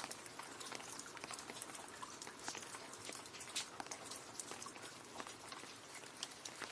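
Rain falling into a puddle: a steady hiss with dense, irregular drop splashes and small plinks.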